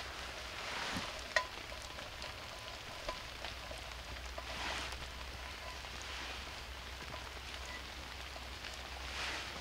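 Venison steak frying with a steady sizzle and scattered small pops, one sharp pop about a second and a half in.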